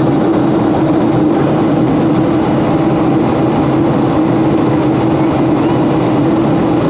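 Airplane cabin noise: a loud, steady drone of engines and rushing air with a constant low hum underneath, unchanging throughout.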